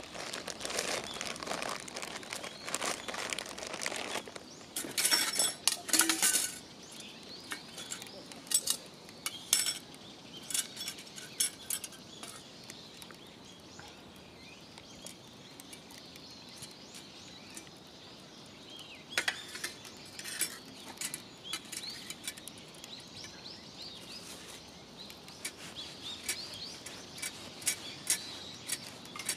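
Wood fire in a fire stand crackling and popping, the crackles densest and loudest in the first several seconds, then sparser with scattered sharp pops, along with light clinks.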